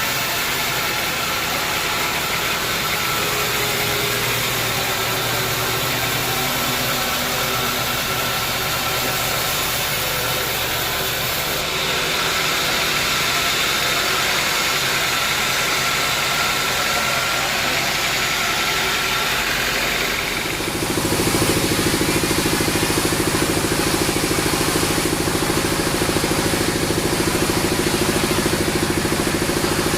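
Sawmill machinery running steadily, growing louder and heavier about two-thirds of the way through.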